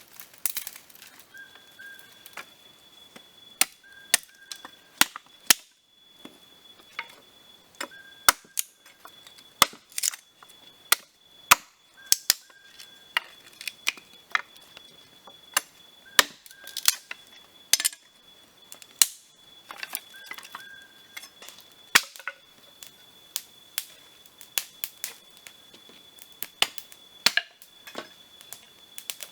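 Snail shells clicking and clinking against one another and a hard container, in irregular sharp knocks, sometimes several a second.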